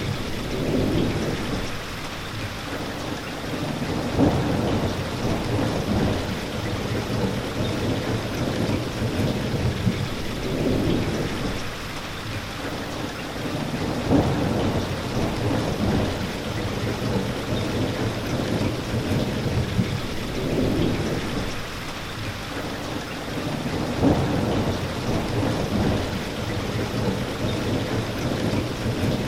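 Steady rain with low rumbles of thunder that swell and fade every few seconds. The same pattern of rumbles comes round again about every ten seconds.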